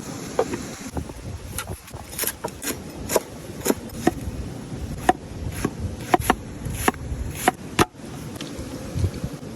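A series of sharp knocks at uneven spacing, about one or two a second, over a steady outdoor background noise.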